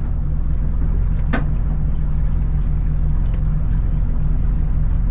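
A boat's motor running steadily with a low hum, and one short sharp sound about a second and a half in.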